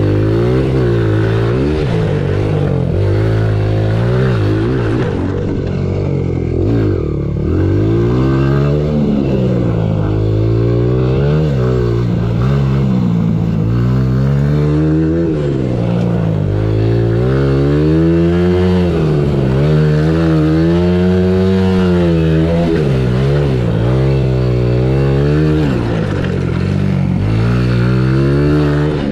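Honda CRF100F's small single-cylinder four-stroke engine being ridden, its pitch climbing and dropping over and over as the throttle is opened and eased and the gears change.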